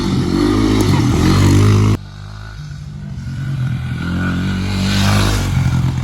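Dirt bike engine revving up, its pitch rising, breaking off suddenly about two seconds in; an engine then builds up again and runs on.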